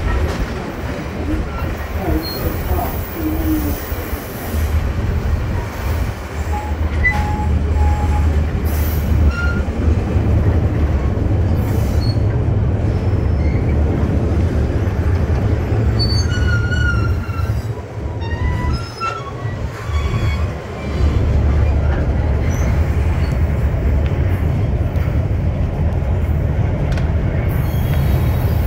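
Passenger train cars rolling on the rails with a steady low rumble, with short high-pitched stretches of wheel squeal about halfway through as the train takes a curve.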